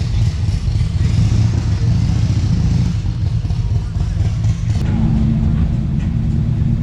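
Car engine running low and steady as a vehicle rolls slowly past; the engine note changes about five seconds in.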